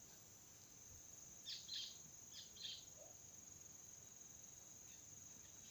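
Steady high-pitched insect drone from crickets, with four short high bird chirps in two pairs between about one and a half and three seconds in.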